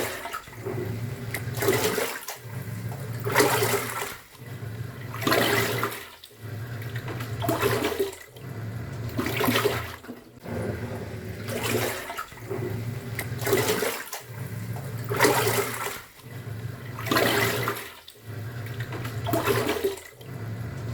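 Top-loading pulsator washing machine agitating a wash load: the motor hums as the pulsator turns, stopping and reversing about every two seconds, with a rush of sloshing water at each reversal.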